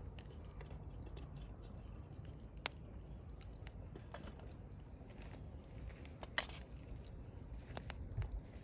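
Firewood burning in a campfire, crackling quietly with scattered sharp pops, a few of them louder, over a low steady rumble.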